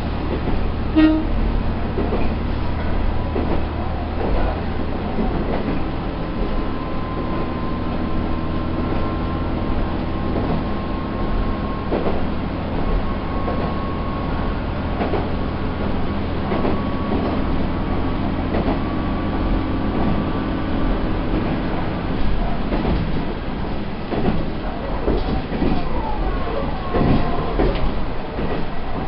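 Matsuura Railway diesel railcar running along the line, heard from inside the cab: a steady engine and running hum with scattered knocks of the wheels over the track. The engine's low drone eases off about six seconds in.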